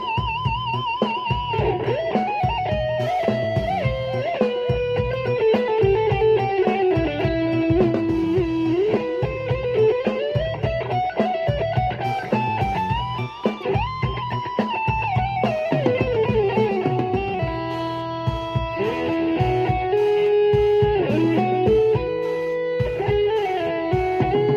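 Electric guitar playing a lead solo melody, with string bends and wide vibrato on held notes, over a steady bass-and-drum rhythm.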